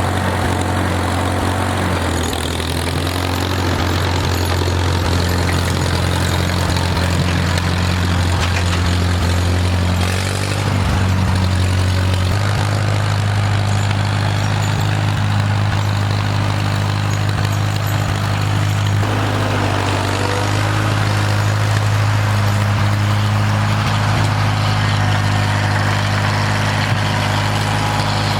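Farmall tractor engine running steadily while moving snow, its speed shifting up and down a few times.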